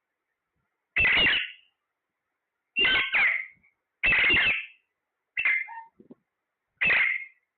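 A parrot giving loud, harsh calls, about six of them, each around half a second long, with pauses in between.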